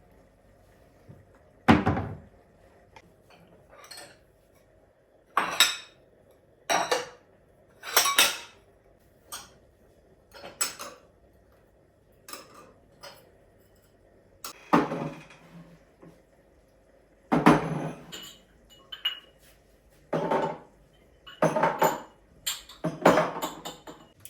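Dishes and cutlery being handled and set down, a string of separate knocks and clinks at irregular intervals, some ringing briefly.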